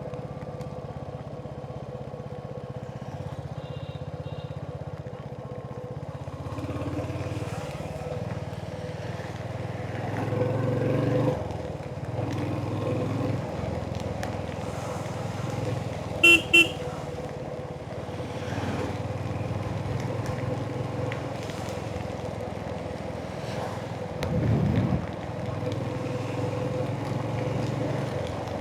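Royal Enfield Hunter 350's single-cylinder engine running steadily under way, swelling louder about ten seconds in and again near the end. A horn gives two short, loud toots a little past halfway.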